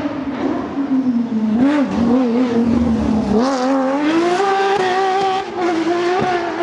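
Rally car engine under hard load on a stage. The revs sag and waver with a couple of quick blips in the first half, then climb about two-thirds of the way in and hold high.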